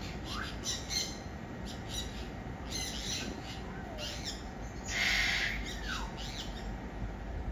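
Several birds calling in a garden: short calls at irregular intervals, a few of them dropping in pitch, with higher chirps and a louder harsh call about five seconds in, over a low steady background noise.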